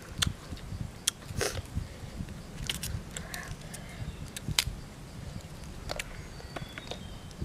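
Scattered sharp clicks and short crunches of a raw guava being chewed and handled, over a low rumble.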